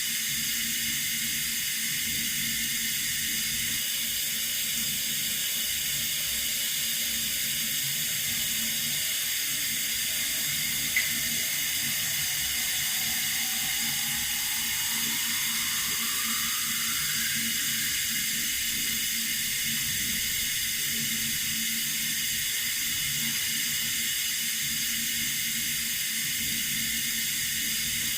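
Tap water running steadily, a smooth even hiss. A single brief click comes about eleven seconds in.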